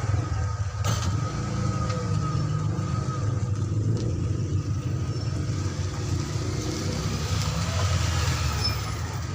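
A motor vehicle engine running with a steady low rumble, with a sharp click about a second in.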